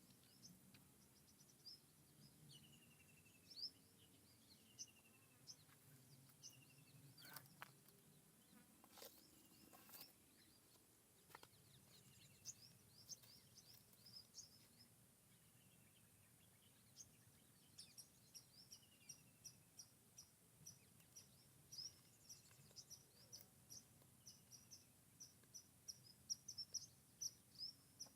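Woodland birdsong. One bird repeats a short falling whistle every second or two, while other birds give quick high chirps that grow busier in the second half. A few sharp clicks come about a third of the way through.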